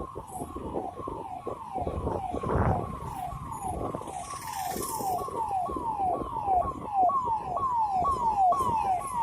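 Electronic siren repeating a quick falling tone about three times a second, heard over the rumble of road traffic.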